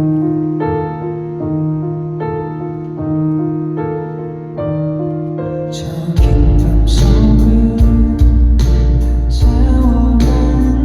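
A song intro played on electric piano or keyboard, with held chords changing about every second. About six seconds in, the full band comes in loudly with drums and bass.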